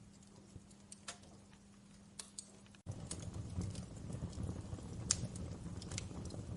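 Wood fire in a fireplace crackling, with scattered sharp pops and snaps. About three seconds in the sound drops out for an instant and comes back with a louder low rush of flames under the crackles.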